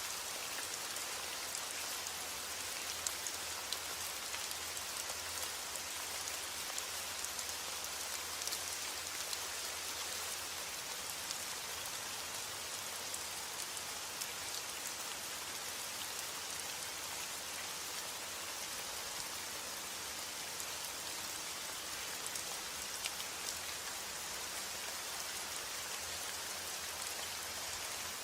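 Steady heavy rain: a dense, even hiss with many sharp ticks of single drops.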